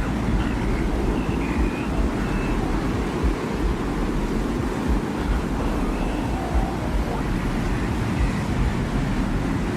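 Desert wind ambience: a steady low rumbling wind with faint, brief higher tones drifting over it now and then.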